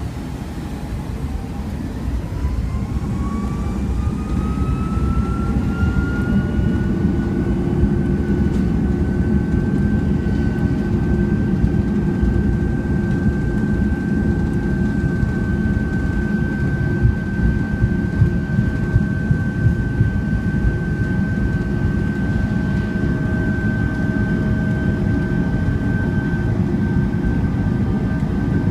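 Boeing 757's jet engines heard from inside the cabin, spooling up: a whine rises in pitch and loudness over about ten seconds, then holds steady over a heavy low rumble with occasional light knocks.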